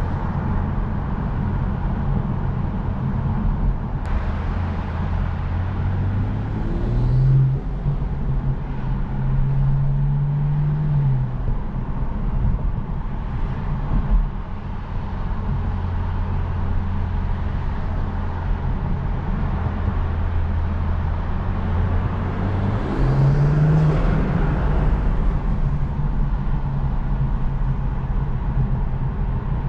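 BMW M240i's turbocharged straight-six engine running under way with road noise. The engine note steps up in pitch about seven seconds in, settles back down a few seconds later, and rises again past twenty seconds as the revs change.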